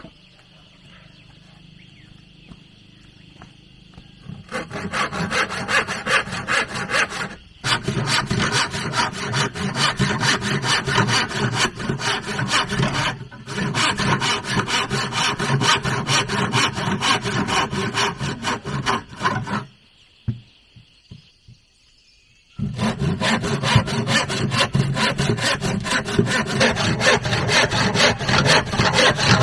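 Hand saw cutting through wood in rapid back-and-forth strokes. It starts about four seconds in, pauses briefly twice, and breaks off for a few seconds about two-thirds of the way through before sawing resumes.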